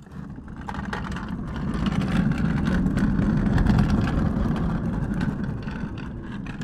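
Low, rough rumble that swells over the first two seconds, holds, then slowly eases off.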